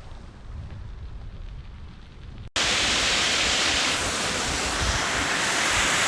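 A low, muffled rumble, then an abrupt cut about two and a half seconds in to loud, steady rushing water.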